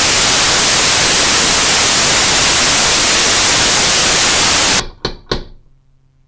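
Loud, steady hiss of static, like a dead broadcast channel, that cuts off suddenly about five seconds in. Two short dull thuds follow just after.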